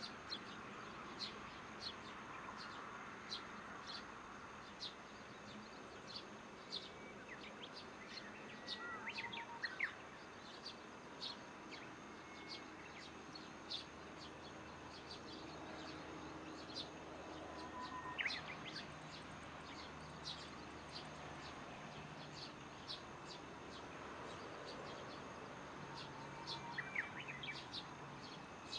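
Dusk ambience of birds and insects. Short high chirps repeat about once or twice a second, and a lower, rising bird call phrase comes three times, about every nine seconds, over a faint steady insect hum.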